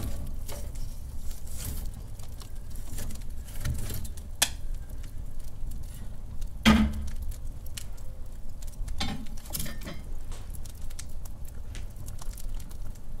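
Wood fire burning in a fireplace, crackling with scattered small snaps and two sharper pops, one about four seconds in and a louder one about halfway through.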